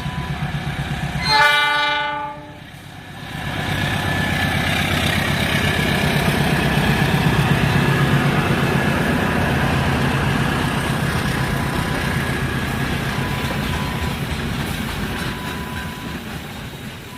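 Freight train locomotive sounding one loud horn blast of about a second, followed by the train rumbling past, wheels clattering over the rail joints, fading near the end.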